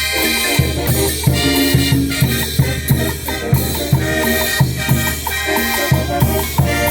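Upbeat Latin dance music with horns and a drum beat, played without a break.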